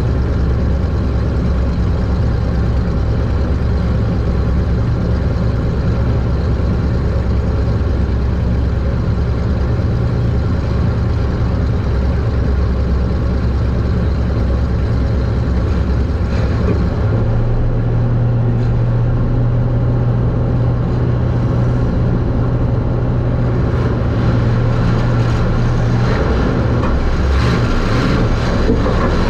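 Super Stock race car engine running hard during a race, heard from inside the car, its note steady and then shifting about two-thirds of the way through.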